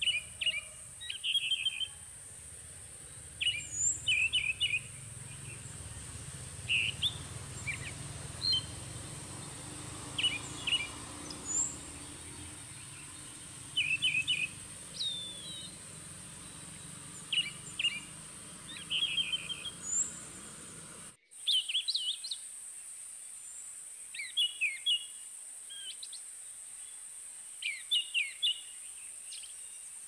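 A forest bird calling in short, quick chirping phrases, repeated every second or two, over a steady high-pitched drone.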